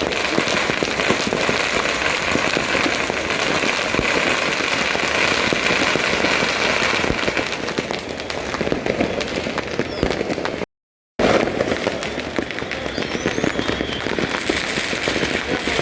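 Dense, continuous crackling and popping of many fireworks and firecrackers going off at once, with a brief gap about eleven seconds in.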